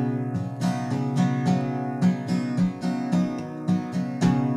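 Music: an acoustic guitar strummed in a steady rhythm, a short instrumental gap in a song.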